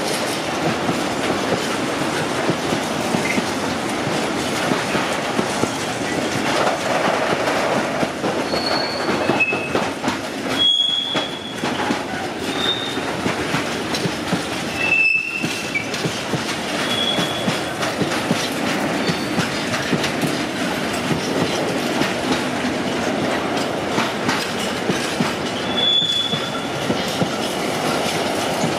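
Freight train of tank wagons and covered wagons rolling past close by, a steady noise of wheels running on the rails. Brief high-pitched wheel squeals sound several times, mostly in the middle stretch.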